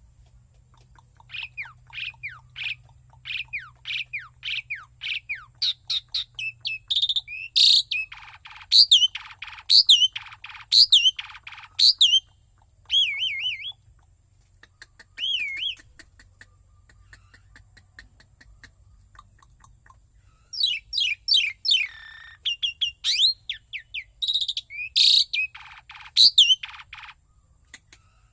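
A songbird singing loudly in two bouts. The first opens with a quick run of repeated notes, then moves into varied phrases and wavering whistled notes. After a pause of a few seconds, a second run of notes and phrases follows.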